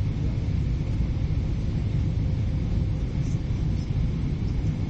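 Steady low rumble in the passenger cabin of a Boeing 777-300ER airliner during its landing, with a faint steady higher tone above it.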